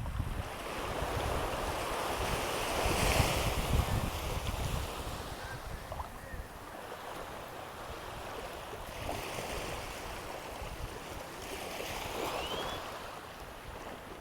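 Ocean surf washing in steadily, with wind buffeting the microphone. The surf swells loudest about three to four seconds in.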